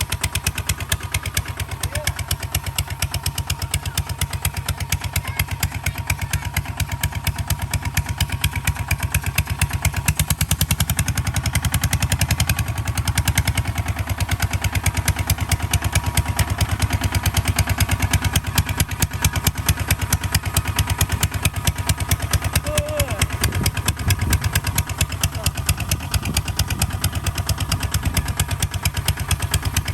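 Kubota ZT155 DI single-cylinder diesel engine of a two-wheel hand tractor running steadily with a rapid, even firing beat. It grows a little louder about ten to fourteen seconds in.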